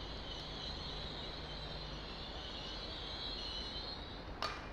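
GWR Hitachi Class 800 train running slowly into the platform: a steady high-pitched whine over a low hum, with a single sharp click near the end.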